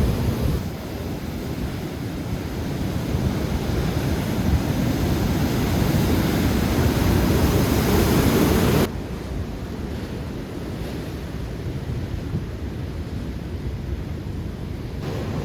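Atlantic surf breaking, with wind buffeting the microphone; the sound drops suddenly about nine seconds in to a quieter, steady hiss.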